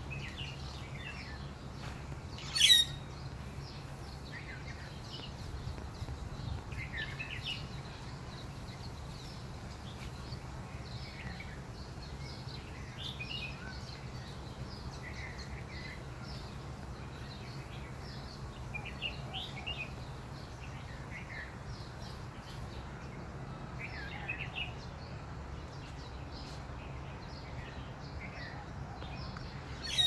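Several birds chirping and calling in short, overlapping notes throughout, over a steady low hum. There is one sharp, loud sound about three seconds in.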